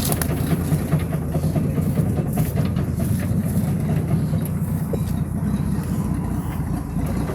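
1968 Boyertown van's engine idling in first gear, turning the driveshaft and the jacked-up rear wheel, with a steady low rumble and faint irregular clicks.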